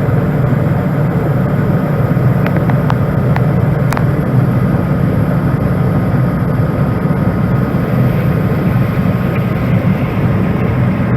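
John Deere 9500 combine running steadily under load while unloading soybeans into a grain box, a constant low drone with a few faint clicks about three to four seconds in.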